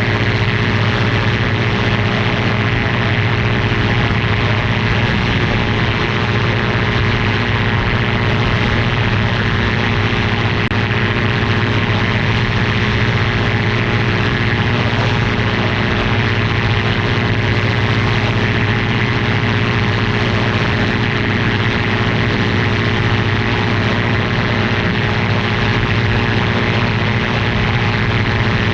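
Ultralight aircraft's engine and propeller running steadily at constant power, a loud unchanging drone with no change in pitch.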